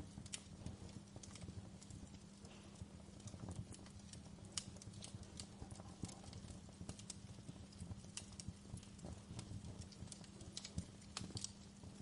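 Fireplace crackling: irregular sharp pops and snaps over a low, steady rumble of burning wood.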